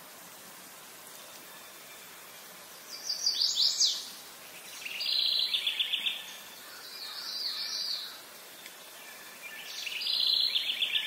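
Birdsong: four short phrases of rapid high notes a few seconds apart, the third fainter, over a steady background hiss.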